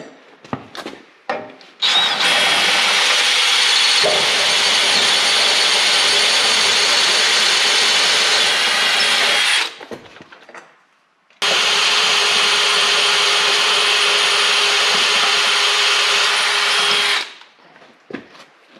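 Power drill with a 23/64-inch bit boring through the tractor's frame, opening a bolt hole out to tap size for a 10 mm bolt. It runs steadily in two long stretches, about seven and six seconds, with a short stop between. A few light knocks come before it starts.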